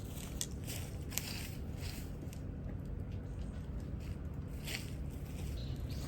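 Scattered crackles and snaps from starting a wood campfire, over a low steady rumble.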